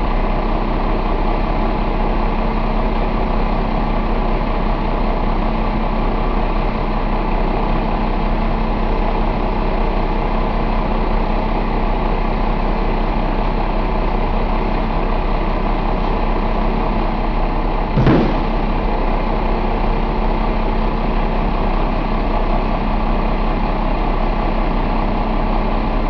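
Cummins Big Cam IV 88NT inline-six diesel idling steadily, with one brief thump about eighteen seconds in.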